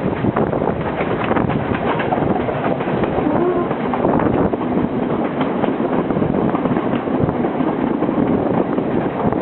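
Passenger train running along the track, heard from the carriage window: a steady rumble with wheels clattering and rattling over the rails, and wind buffeting the microphone.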